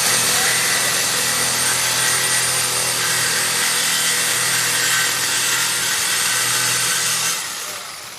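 A power tool cutting through a steel exhaust pipe, running steadily under pressure and stopping about seven seconds in.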